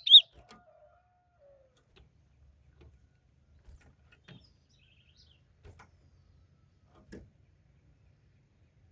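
An ultramarine grosbeak (azulão) finishes a fast warbled song phrase right at the start, followed by a long lull with only faint scattered clicks and a few faint distant notes.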